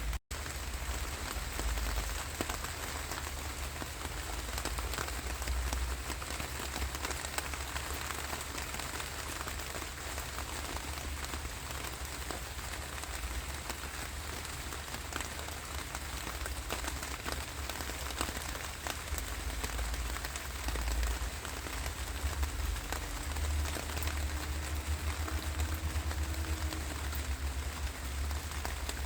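Steady rainfall, a constant hiss with many individual drops ticking through it, over a low rumble. The sound drops out for a moment just after the start.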